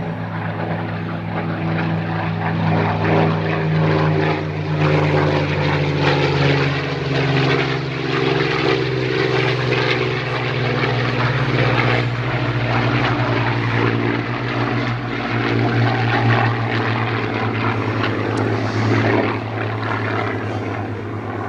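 Spitfire and Hurricane flying a full-speed pass together, a steady propeller-engine drone whose pitch slowly falls as they go by.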